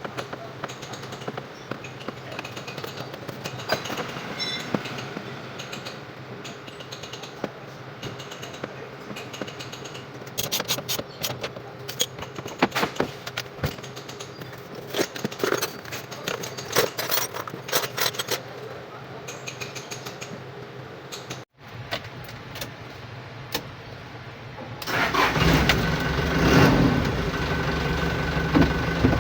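Scattered clicks and metallic knocks over a low steady hum, then about 25 seconds in a Hino 300 truck's diesel engine starts and runs at idle.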